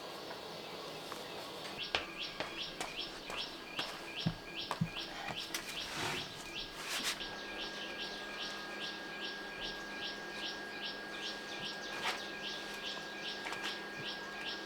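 A bird calling in a fast, even series of short, falling chirps, about three a second, starting about two seconds in. A few knocks come near the middle.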